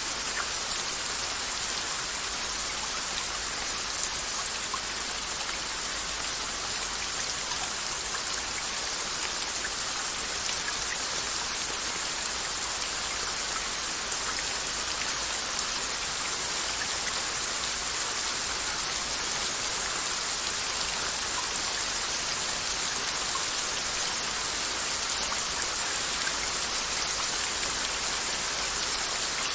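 Steady rain falling, a constant hiss with scattered small drop ticks on a surface.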